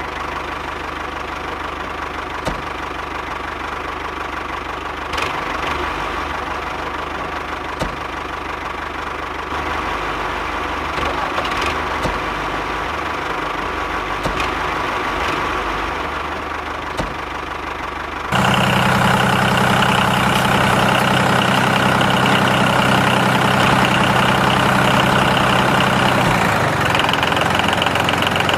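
Small electric motor of a homemade toy tractor and mini oil-press model running steadily. About two thirds of the way in it gets louder and a steady hum joins it.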